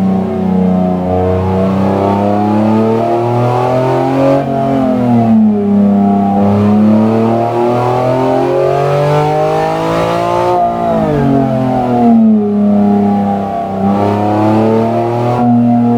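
BMW S54B32 3.2-litre naturally aspirated inline-six in an E46 revving: the engine note climbs slowly, dips briefly about four seconds in, climbs again, then falls sharply about ten and a half seconds in before settling.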